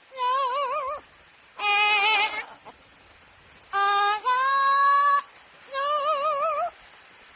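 Pet parrot singing: five clear, high notes separated by short pauses, the first two and the last wavering up and down in pitch, the middle two held steady.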